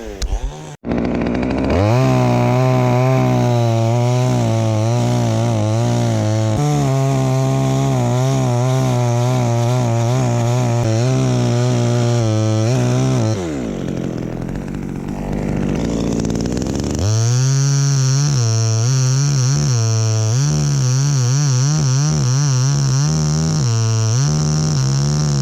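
Two-stroke chainsaw revving up and running at high throttle, its pitch wavering as it cuts into wood, dropping back to a lower idle about 13 seconds in, then revving and cutting again about 4 seconds later. It is cutting a notch to drop a section of the tree.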